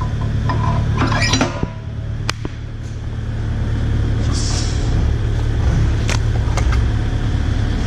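Kubota 057-5 excavator's diesel engine running steadily, its level dipping briefly about two seconds in. A few sharp metallic clinks sound over it.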